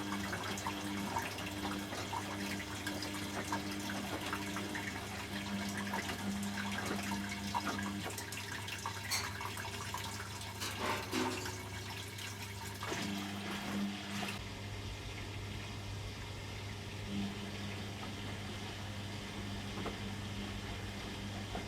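Beko 6 kg washing machine taking in water: a steady rush of water over a low hum. About two-thirds of the way through, the rush stops suddenly, leaving a low hum.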